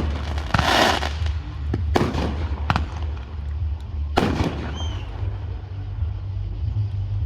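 Fireworks show: aerial shells going off in a series of sharp booms, one bursting into crackles about a second in, with a short whistle near the middle, over a steady low rumble.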